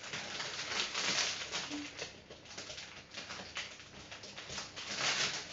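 Toy packaging crinkling and tearing as the wrapping and tape are ripped off, in uneven rustling surges.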